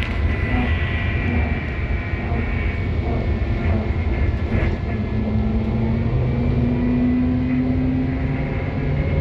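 SVARZ-6235 trolleybus under way, heard from on board: a steady low rumble with thin electric whines from the traction drive. A high whine falls slowly over the first few seconds, and a lower one rises in pitch in the second half.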